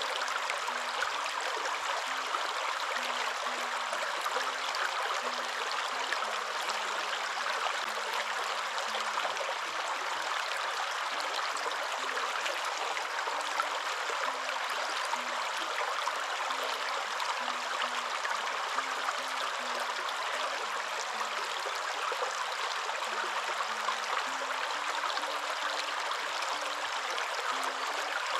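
Waterfall: a steady, unbroken rush of falling water. Faint low notes step up and down in pitch beneath it.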